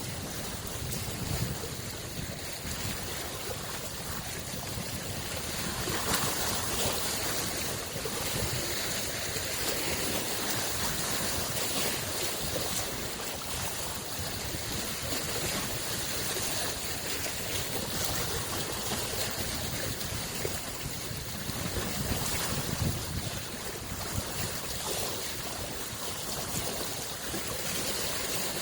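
Small freshwater lake waves washing on the shore: a steady wash of water that swells a little now and then.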